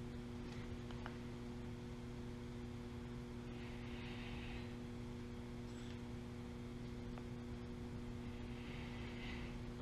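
A steady low electrical hum, with a faint click about a second in and soft hissy rustles around four and nine seconds in.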